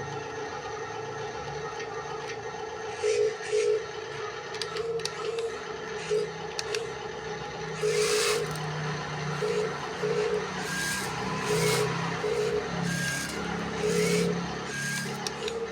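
Electric motors of radio-controlled construction models (a loader and a dump truck) whirring steadily, with repeated short louder bursts of scraping noise, as the loader works the gravel.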